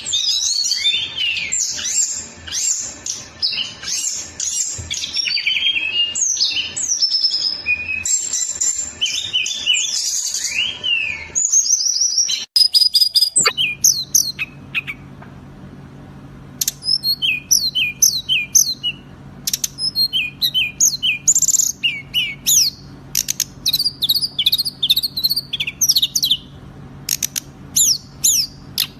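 Songbird singing a fast, tightly packed song of rapid chirps and trills, the 'speed rapat' style used as masteran to train caged songbirds. About halfway through, the recording cuts to a different bird singing short chirp phrases repeated in quick succession over a steady low hum.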